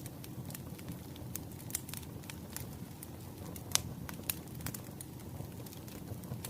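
Bonfire crackling: irregular sharp pops and snaps over a low steady rumble of burning, with one louder pop near the middle.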